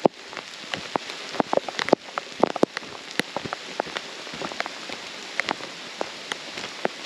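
Steady rain falling on a forest, an even hiss with many sharp, irregular raindrop taps.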